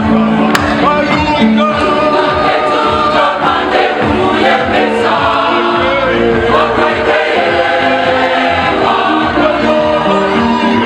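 Choir singing a gospel hymn, many voices together.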